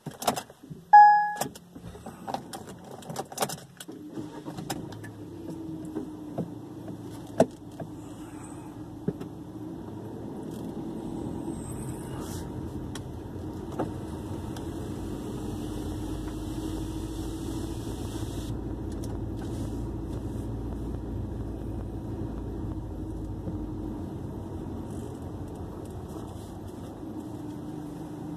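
Car keys jangling and clicking in the ignition, with a short beep about a second in. The car's engine starts about four seconds in and then runs steadily as the car moves off.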